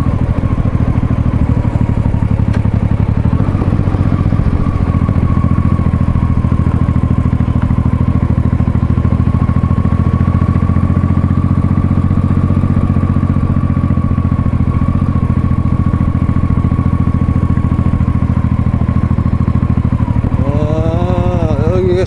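Honda Shadow's V-twin engine running steadily under way at an even cruising speed, with a low, unchanging exhaust note.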